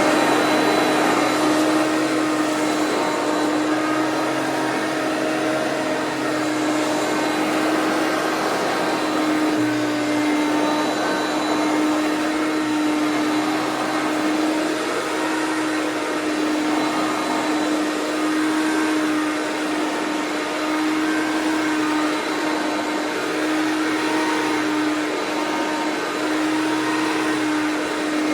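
Hoover PowerMax bagged upright vacuum cleaner running steadily, its motor holding an even whine over the rush of air.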